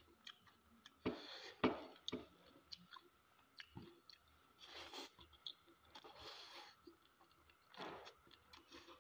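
Close-up eating sounds of a man eating soft fish curry and pasta by hand: wet chewing, lip smacks and mouth clicks. The sharpest smacks come about a second in.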